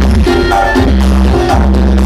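Loud music played through the Blizzard Audio sound-system rig, with heavy, steady bass and short repeating melodic notes in a regular pattern.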